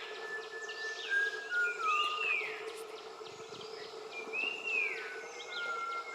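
Wild birdsong: a short whistled phrase ending in a high arching slur, heard twice about two and a half seconds apart, with long level whistles at a lower pitch in between. A steady low hum runs underneath.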